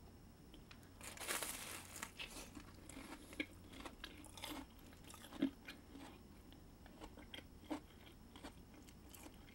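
A person bites into a corn dog's fried batter crust with a crunchy burst about a second in, then chews with a run of small crackles and clicks.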